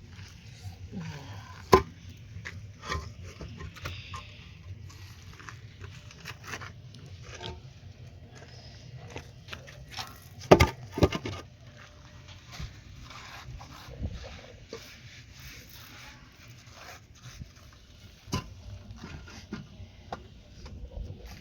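Scattered knocks, clatter and scrapes of handwork, with two sharp knocks standing out, one about two seconds in and one about halfway through.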